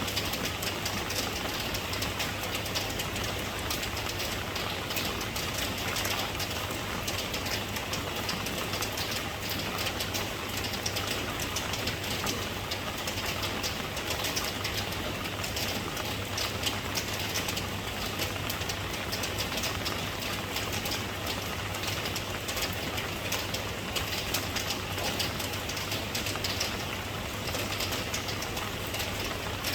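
Steady rain falling, a dense continuous patter of drops, with a steady low hum underneath.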